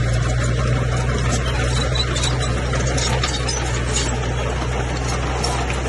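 Bulldozer's heavy diesel engine running steadily under load, a constant low drone with scattered light metallic clicks over it.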